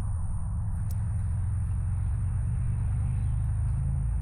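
Gusty wind buffeting the microphone, a steady low rumble that flutters unevenly, with a thin, steady high-pitched hiss above it.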